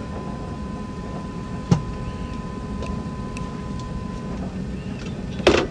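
Amfleet I passenger coach rolling slowly on the rails, heard inside the car: a steady low rumble with a faint steady high tone that stops about four seconds in. A sharp knock comes about a second and a half in, and a louder clatter near the end.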